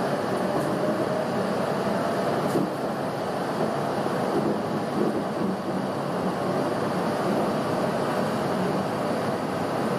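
CityRail electric suburban train running along the track, heard from inside the carriage: a steady rumble and rail noise, with a faint motor whine in the first couple of seconds.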